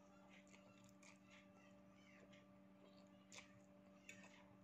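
Near silence: faint chewing and mouth sounds of someone eating fried instant noodles, with a light click a little over three seconds in and a few more near the end, over a steady faint hum.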